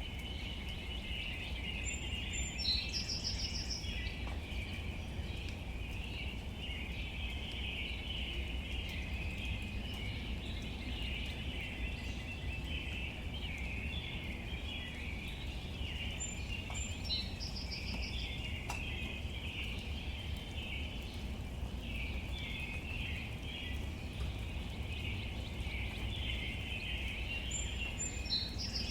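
Steady outdoor ambience of rain falling on leaves: a dense, even patter with a low rumble beneath it. A bird calls three times, roughly every 13 seconds, each time a short high note followed by a brief trill.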